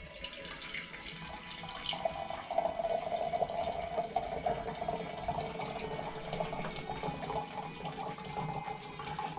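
Water pouring in a steady stream into a container, starting a couple of seconds in.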